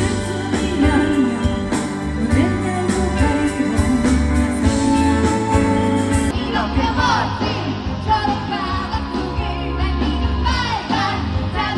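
Live rock band playing a song: drums, bass and guitars, with a woman singing lead.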